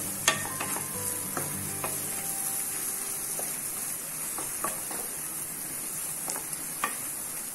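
Sliced onions sizzling as they fry in oil in a non-stick kadai, stirred with a spatula that taps and scrapes against the pan now and then. The onions are being sautéed with ginger-garlic paste and chilli powder until the oil begins to separate.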